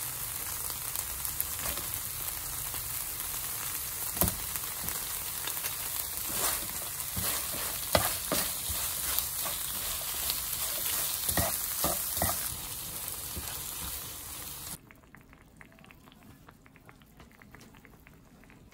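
Squid and vegetables sizzling in a nonstick frying pan while a cooking spoon stirs them, knocking and scraping against the pan now and then. About fifteen seconds in, the sizzling cuts off suddenly, leaving a quiet room with faint small clicks.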